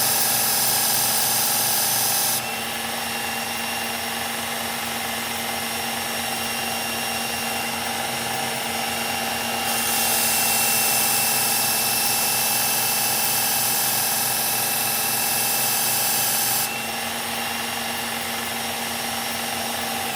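Electric belt knife sharpener running steadily, with a louder hiss twice as the Gerber Propel Downrange's blade is pressed against the moving belt. The motor is switched off at the very end and winds down.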